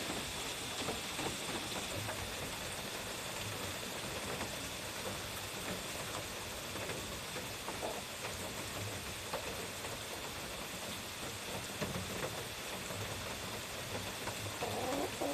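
Steady hiss of light rain with a few faint scattered ticks.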